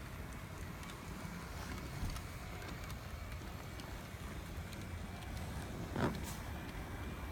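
Brass HOn3 model steam locomotive (a K-37) running on model track: a steady low rumble of motor and wheels with light scattered clicks. A brief louder rush comes about six seconds in, and a faint high whine is heard near the end.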